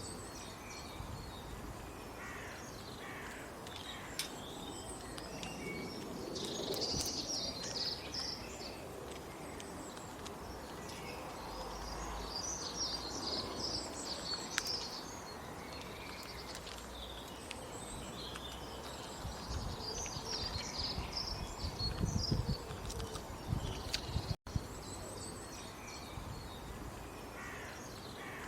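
Birds calling and chirping in bursts over steady outdoor background noise, with a short low rumble a little after two-thirds of the way through.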